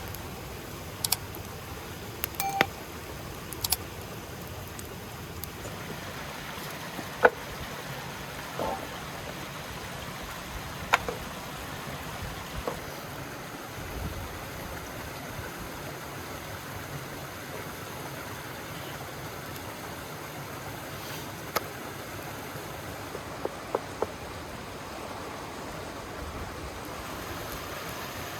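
River water flowing steadily, with about a dozen short sharp clicks and clinks scattered through, some with a brief ringing tone.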